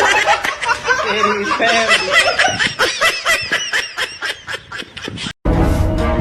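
A person laughing in quick, rhythmic bursts of giggling snickers. About five seconds in, it cuts off abruptly, giving way to a steady, pitched sound.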